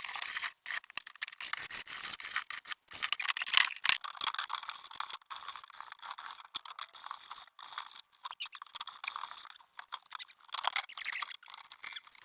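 Rapid back-and-forth scrubbing on old wooden floorboards, a dry rasping scrape of rubbing strokes with brief pauses, as the dirt is worked off the boards by hand.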